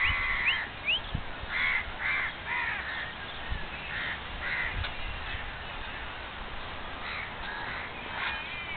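Birds calling outdoors: a run of short calls in quick succession over the first three seconds, then scattered calls through the rest, with two brief rising whistles near the start.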